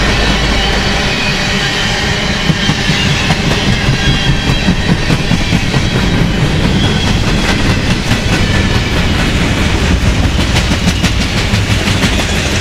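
Freight cars (covered hoppers, tank cars and autoracks) rolling past close by: a steady rumble and hiss of steel wheels on rail, with clickety-clack over the rail joints. A deep low rumble eases off about a second in, and the clicks come thickest near the end.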